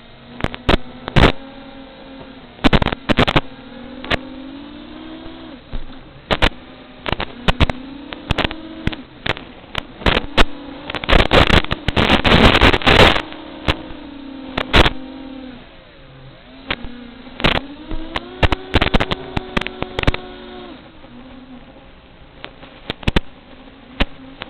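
FPV quadcopter's electric motors and propellers buzzing, the pitch rising and falling as the throttle changes, with many loud sharp crackles and pops over it and a burst of rough noise about halfway through.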